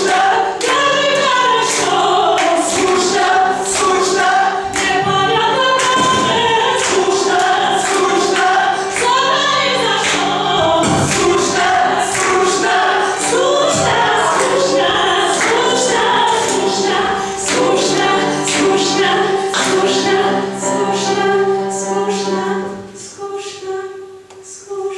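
A choir of several voices singing, with steady low held notes beneath the shifting melody lines. About two seconds before the end the low notes stop and the singing thins and fades.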